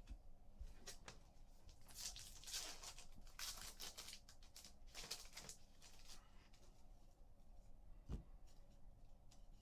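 Faint crinkling and rustling of trading card packs and cards being handled, in several short bursts between about two and six seconds in, with a single soft thump near the end.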